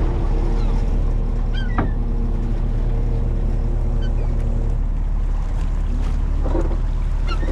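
A boat's engine running at a steady idle, a low hum with a steady tone above it. About five seconds in, the upper part of the hum drops away and the low drone continues.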